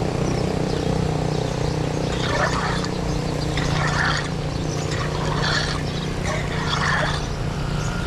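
An engine running steadily with a constant low hum, with short irregular bursts of higher-pitched noise over it every second or so.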